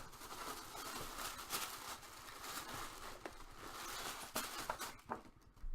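Rustling with many small clicks and ticks from trading cards and their packaging being handled and opened. It thins out near the end.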